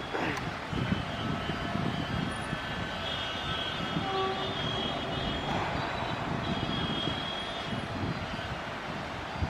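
Steady low rumble of an approaching express train, with a few faint high steady tones in the distance.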